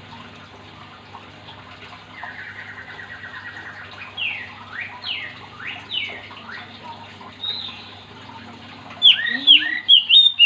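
Oriental magpie-robin singing: a fast even trill about two seconds in, then a series of clear whistles sweeping downward in pitch. Near the end comes a burst of sharp, rapid notes, the loudest part.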